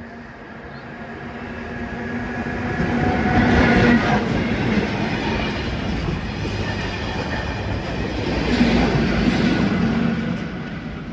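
A train passing over a level crossing: a rumble with a steady hum that builds up, is loudest about four seconds in and again near nine seconds, then fades away.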